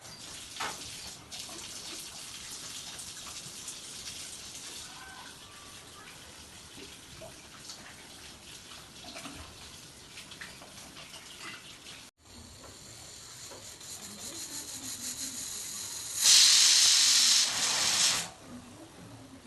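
Food cooking in a pot with a steady hiss and small crackles, and a much louder hissing burst lasting about two seconds near the end.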